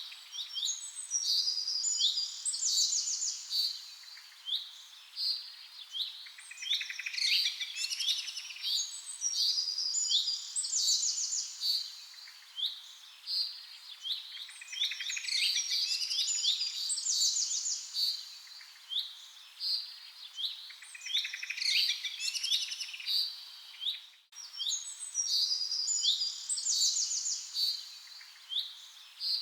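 A chorus of many birds chirping and calling, a steady stream of short high notes and rapid trills, with a momentary break about three quarters of the way through.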